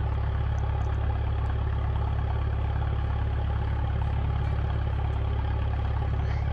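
An engine running steadily at idle: a low, even rumble with no change in speed.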